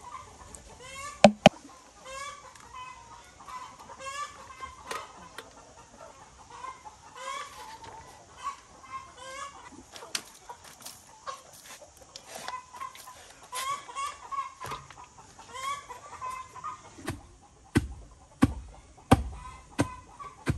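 Birds giving short repeated calls, about one or two a second, with a few sharp knocks near the end.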